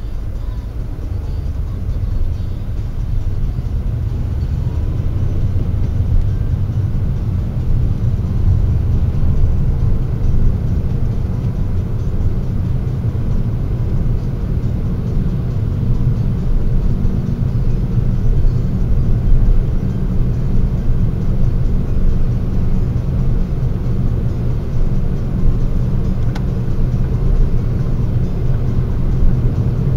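Steady low rumble of a car on the move, engine and tyre noise picked up inside the cabin by a dashcam's built-in microphone; it grows louder over the first few seconds.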